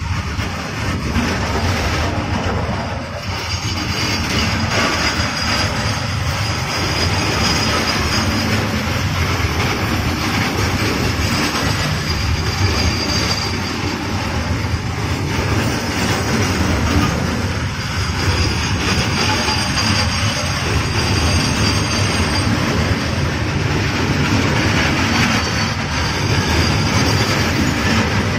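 Freight train wagons rolling past close by: a steady, loud rumble and rattle of steel wheels on the rails, with a faint high squeal coming and going.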